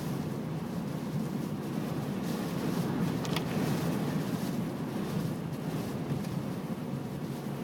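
Blizzard wind gusting and buffeting the microphone, a steady, rough rumble with hiss swelling and fading above it.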